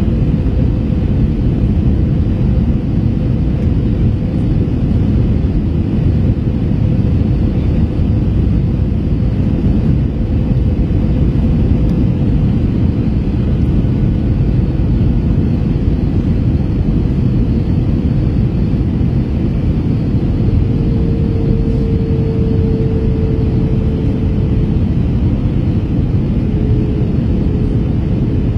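Steady cabin noise of an Airbus A321 airliner on approach: a low rumble of airflow and engines with a faint steady hum. The hum grows stronger and a little lower in pitch about two-thirds of the way in, and again near the end.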